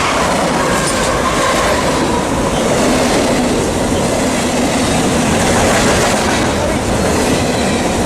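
Freight train passing close by, a loud, steady noise of steel wheels on rail and rattling cars.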